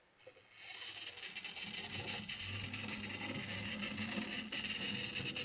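Tyco HO scale F3 diesel model locomotive's small electric motor starting about a second in and then running steadily, a whir with a low hum under it.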